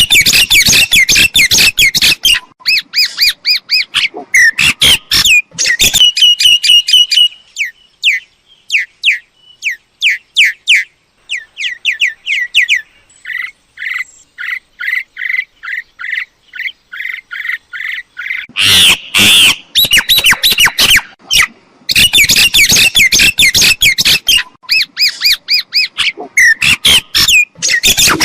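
Myna calling: rapid runs of chattering, squawking and whistled notes, thinning to a steady series of repeated short notes midway, then harsh, loud chatter again from about two-thirds of the way in.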